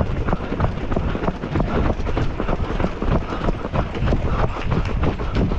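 Running footsteps of marathon runners on the road: a quick, uneven patter of many shoe strikes over a steady low rumble.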